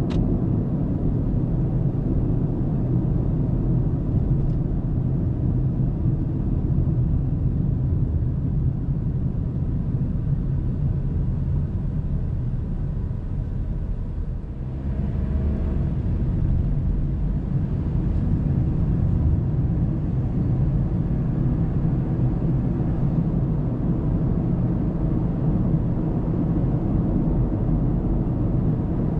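A car's tyre and engine noise heard from inside the cabin on a dashcam: a steady low rumble while driving. It dips briefly about halfway through, then comes back up.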